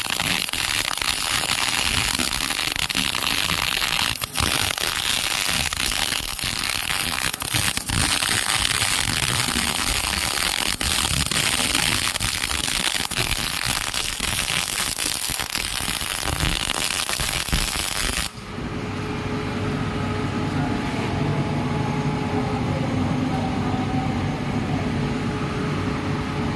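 MIG welding arc crackling and sizzling steadily, then cutting off suddenly about three-quarters of the way through. A steady low hum is left after it stops.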